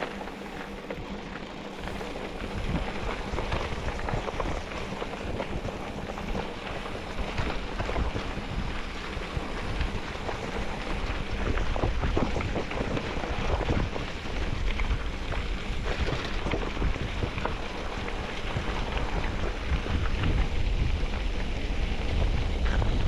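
Wind buffeting the microphone over the low rumble of a moving vehicle, a steady rushing noise that grows louder toward the end.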